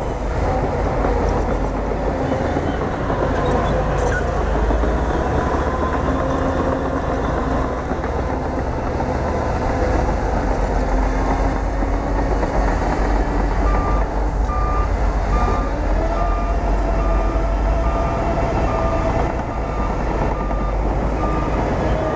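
Bulldozer's diesel engine running steadily under load. From about two-thirds of the way in, a reversing alarm beeps evenly, roughly two beeps a second.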